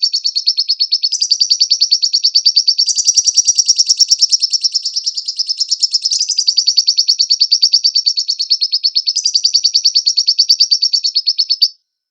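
Lovebird chattering in a long, rapid run of high repeated notes, with small shifts in pitch along the way, stopping abruptly near the end.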